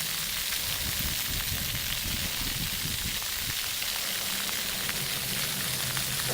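Splash pad water jets spraying and splattering onto wet pavement, a steady hiss.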